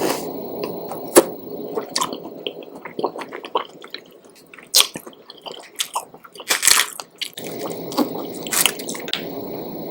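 Close-miked wet eating sounds: chewing with sharp lip smacks and wet clicks, typical of eating saucy noodles and shrimp.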